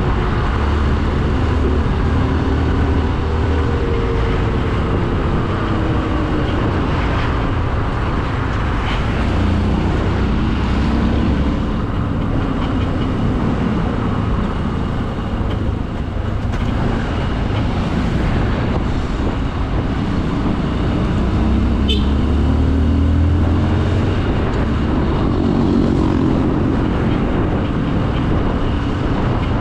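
Motorcycle engine running under way with wind rushing over the microphone, its pitch rising and falling several times with the throttle. A single sharp click about 22 seconds in.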